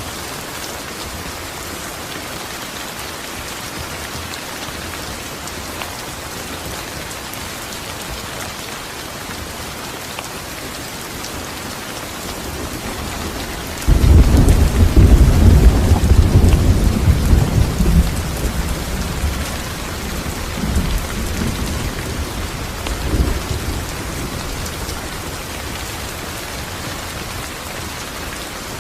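Steady heavy rain falling, with a clap of thunder about halfway through: a sudden loud low rumble that rolls on and fades over several seconds, with a further smaller rumble near the end.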